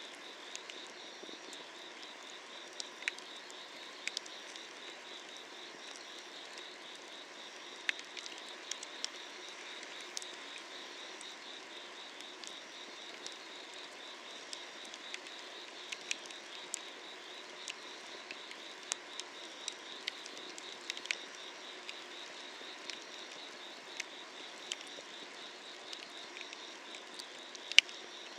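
Firewood burning under a cast-iron cauldron, crackling with irregular sharp pops, the loudest near the end, over a steady chorus of night insects trilling.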